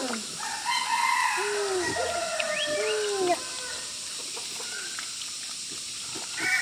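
Chickens calling over one another, with a rooster crowing among them, from about half a second in until a little past three seconds.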